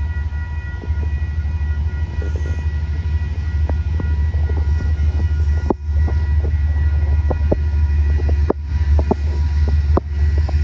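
A passing passenger train: a steady low rumble with a few steady high tones over it, and irregular sharp clicks throughout.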